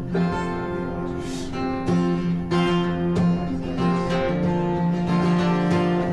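Acoustic guitar playing an instrumental chord intro, strummed and picked at an easy, steady pace before the vocals come in.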